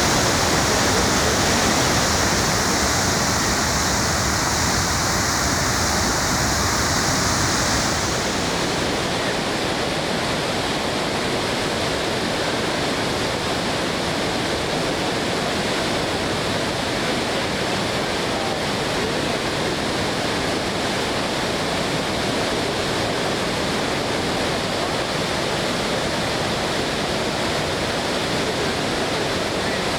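Floodwater rushing over McLaren Falls: a steady, loud roar of water. About eight seconds in its hiss loses some of its top end.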